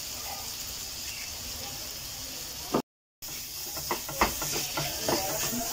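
Chicken mince sizzling in hot oil and butter in a non-stick frying pan, a steady hiss. The sound cuts out briefly about three seconds in, then the spatula scrapes and taps against the pan as the mince is broken up and stirred.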